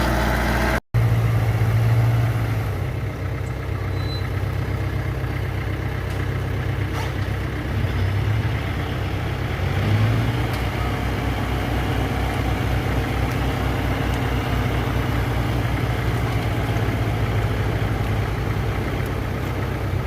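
Diesel engine of heavy earthmoving machinery running steadily, with a strong low pulse and slight swells in loudness about two and ten seconds in. The sound cuts out completely for a moment about a second in.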